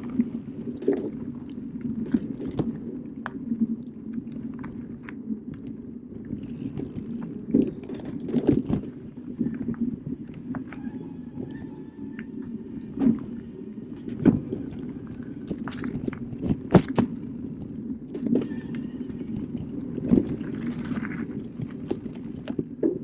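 Specialized Turbo Kenevo SL e-mountain bike ridden along a forest trail: a steady rumble of tyres rolling over dirt, with frequent sharp knocks and rattles as the bike goes over bumps.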